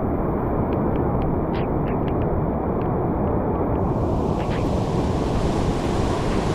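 Floodwater rushing steadily from the open dam gates, a dense, even wash of water noise.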